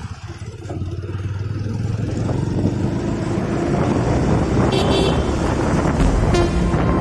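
Motorcycle riding on a road, its engine and the road and wind noise building steadily louder as it picks up speed. A short vehicle horn toot sounds about five seconds in.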